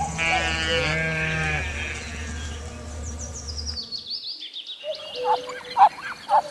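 A sheep bleating: one long bleat at the start. It is followed by fainter high chirps and short repeated calls in the second half.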